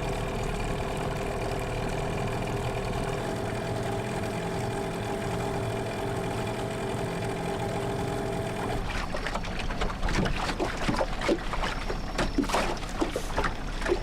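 Boat motor running steadily with an even hum, which stops abruptly about nine seconds in. A run of irregular clicks and knocks follows.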